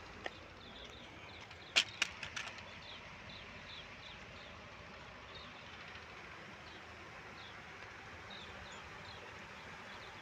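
Open-air background with small birds chirping in short, repeated high notes, and a quick cluster of sharp knocks about two seconds in.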